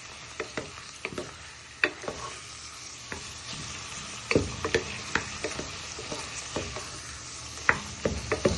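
Chicken and chopped vegetables sizzling in a hot oiled frying pan while being stirred with a wooden spoon, with irregular knocks of the spoon against the pan over a steady sizzle.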